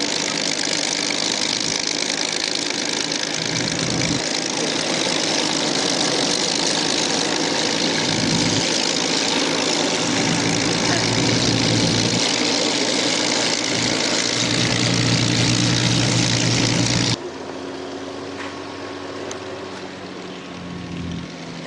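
Spitfire and Hurricane Rolls-Royce Merlin piston engines running loud and steady on the ground during a scramble. About 17 seconds in, the sound cuts off abruptly to a quieter, steady engine hum.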